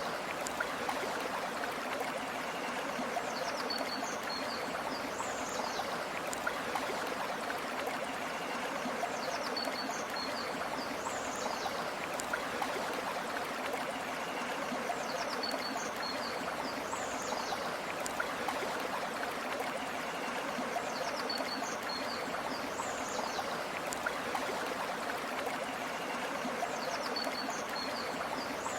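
A stream flowing steadily over stones with a constant rushing, trickling sound. A bird's short high chirping call repeats at even intervals of about six seconds, five times in all.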